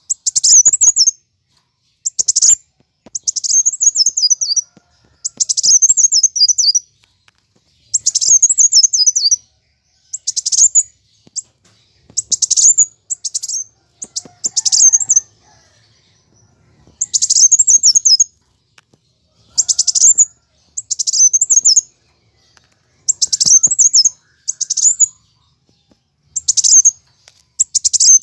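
Kolibri wulung (a sunbird) singing in its agitated fighting mode. It gives repeated bursts of rapid, very high-pitched twittering chirps, each a second or so long, with short pauses between them.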